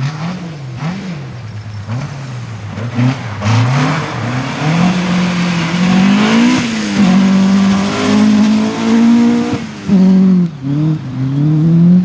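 Rally car engine under hard throttle on a stage: the revs swing up and down several times, then climb in steps through the gears as the car draws closer and louder, with the throttle lifting sharply twice near the end.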